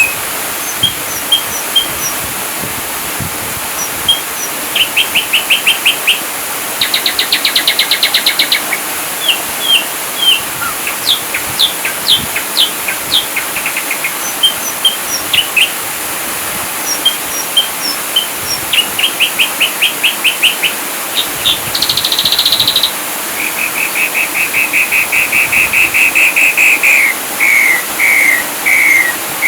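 Ashy drongo singing a varied, fast-changing song: short repeated whistled notes, rapid trills and sharp downward-sweeping chirps, one phrase after another, over a steady hiss.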